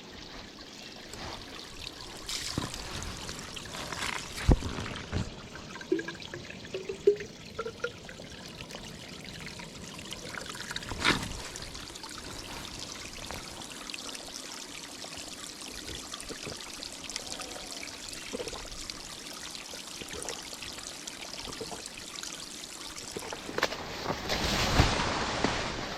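Water trickling steadily, with a few sharp knocks.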